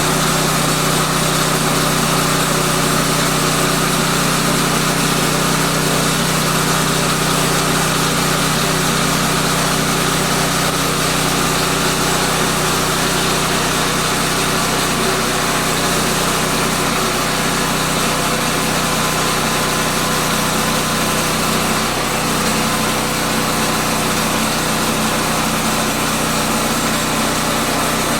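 Woodland Mills portable band sawmill's small gasoline engine running steadily at speed, driving the band blade.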